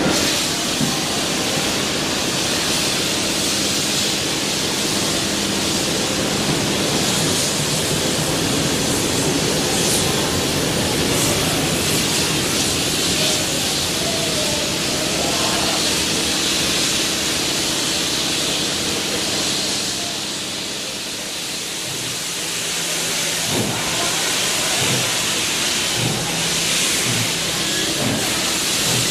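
Railway sounds at a platform: heritage passenger carriages rolling past, a diesel locomotive's engine running with a steady hum, and steam hissing from steam locomotive 3642 near the end.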